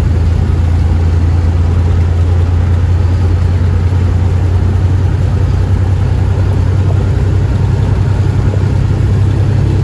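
Semi truck running down the road: a steady low engine drone with road noise, holding even throughout.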